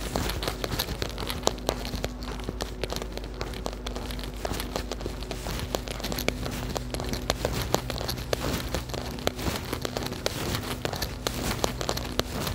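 Rain falling, with many irregular sharp ticks of drops striking close by, over a steady low hum.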